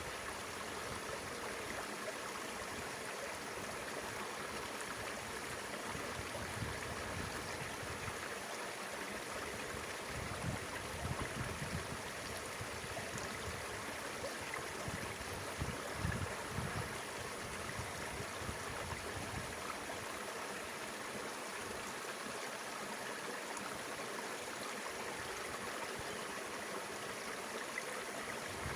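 Mountain river flowing: a steady rush of water, with a few brief low rumbles about a third of the way in and again past halfway.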